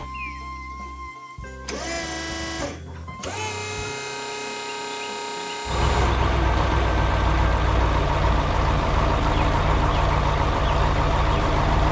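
A short cartoon music cue of sustained tones with rising slides. From about six seconds in, a steady, loud low engine rumble, like a heavy construction vehicle's engine running.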